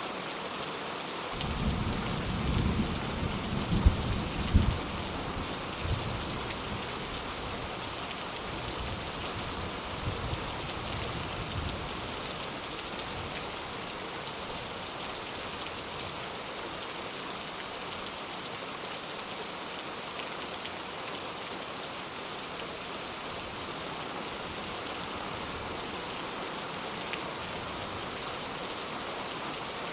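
Steady rain falling with an even hiss. About a second and a half in, thunder rumbles low, with two sharp cracks about half a second apart near four seconds, and dies away by about twelve seconds.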